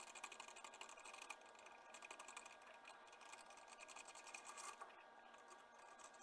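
Faint, steady whirring and fine rapid ticking of a small machine tool running.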